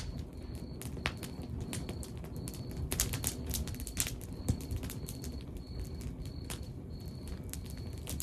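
Log fire crackling: irregular sharp pops and snaps over a low, steady rumble of burning wood, with a faint short high chirp repeating about every half second.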